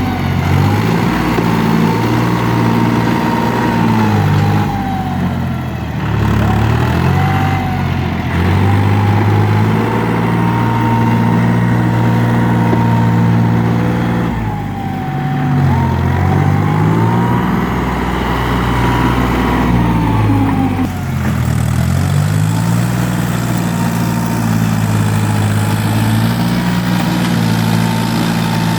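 Farm tractor's diesel engine running steadily while ploughing, with a higher whine that follows the engine speed. The pitch sags and recovers three times, about 5, 15 and 21 seconds in.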